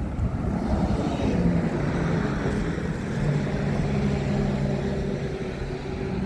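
An engine running with a steady low hum that shifts slightly in pitch, over constant street noise.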